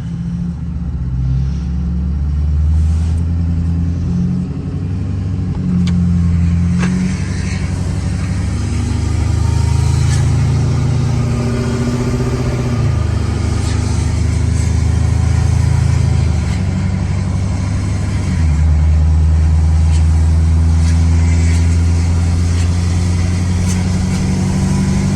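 Loud exhaust of a modified pickup truck being driven. The low engine note steps up and down several times as it accelerates and eases off.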